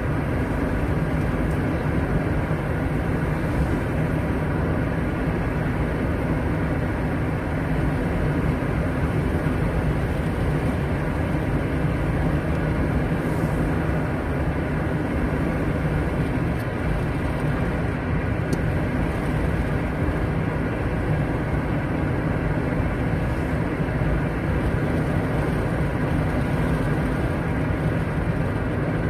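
A car driving at a steady speed, heard from inside the cabin: an even rumble of engine and road noise that does not change.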